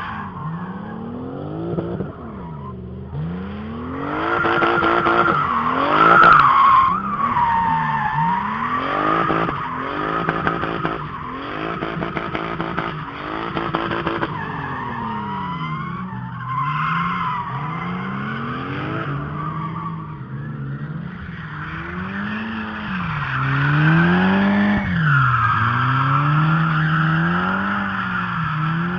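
Drift car engines revving up and down over and over, with tyres screeching through long slides.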